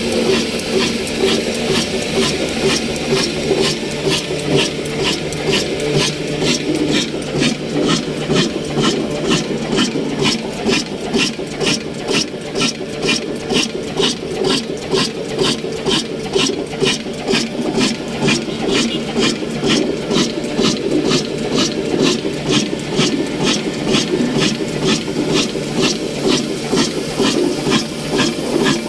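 Old 22/24 HP slow-speed diesel oil engine running steadily at about 300 RPM under the load of a flour mill, with an even beat of a few strokes a second.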